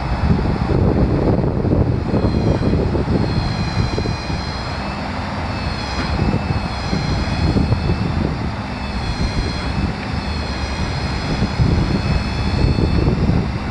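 The 6.7-litre turbo diesel engine of a Ford F550 runs steadily, with a high whine wavering slightly above the rumble.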